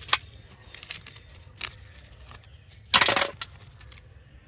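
Scattered crunches and snaps of soil and roots being dug up and pulled, the loudest a short rough crunch about three seconds in.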